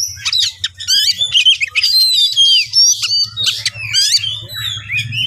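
Oriental magpie-robin (kacer) singing a rapid, varied stream of whistles, chirps and harsh squawky notes that rise and fall in pitch, with a faint low hum underneath.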